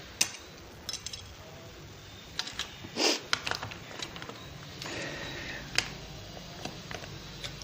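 Thin aluminium sheet cut from a drink can being flattened by hand, crinkling and clicking, with one louder rustle about three seconds in.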